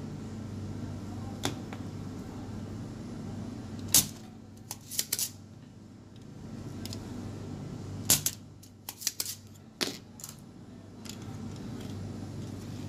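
Scattered sharp clicks and taps of hand tools working on a circuit board, some in quick clusters, over a steady low hum.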